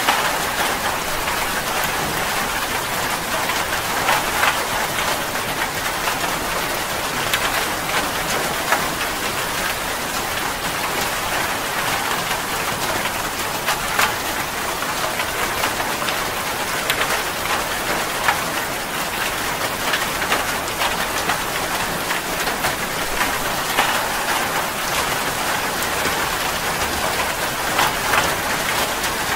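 Steady rain falling, an even hiss with a dense scatter of sharp individual drop ticks.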